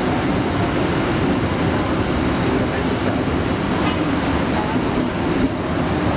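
Passenger train carriage running along the rails, heard from inside: a steady rumble of wheels and coach, with faint indistinct voices under it.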